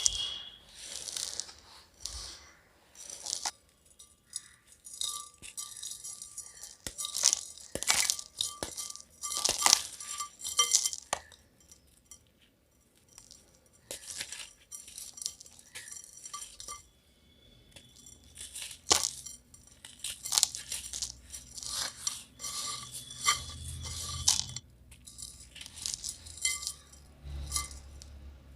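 Dry yellow granules crunching and jingling in a clay pot as they are stirred and pressed, in irregular bursts of bright, clinking crackle with short pauses between.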